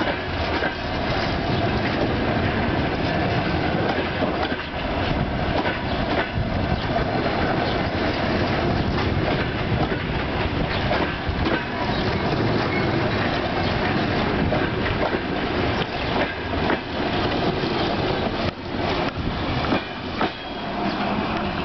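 Passenger coaches rolling past close by: a steady rumble of steel wheels on rail with repeated clickety-clack as the wheelsets cross rail joints. The sound drops off near the end as the last coach goes by.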